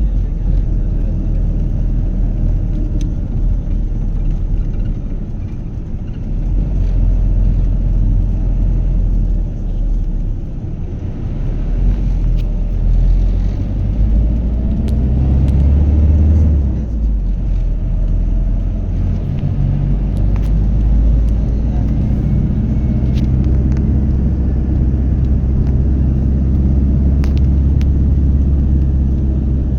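Motor vehicle running: a steady low rumble with an engine hum that dips briefly about eleven seconds in.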